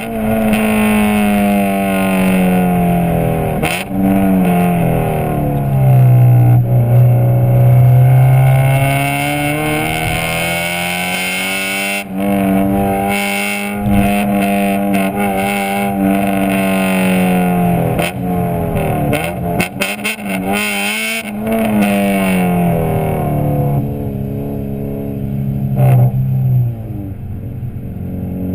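Honda B16A2 1.6-litre VTEC four-cylinder running through a Skunk2 Alpha header and Megapower R cat-back exhaust, its note falling and rising repeatedly with engine speed. There are a few short sharp clicks or pops in among the engine note.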